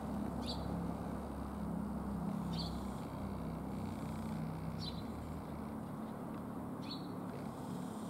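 A small bird gives a short, high chirp about every two seconds, each call sliding downward. A steady low hum runs underneath.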